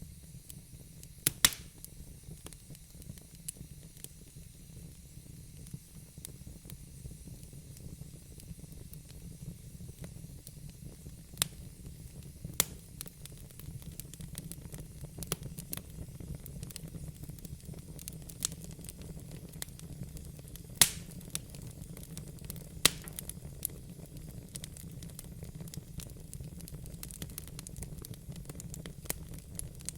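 Wood fire burning in a fireplace: a steady low rumble and hiss with sharp, irregular crackles and pops from the burning logs.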